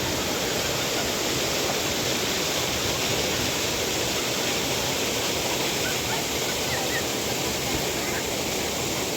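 Steady rush of flowing water, an even noise that holds level throughout.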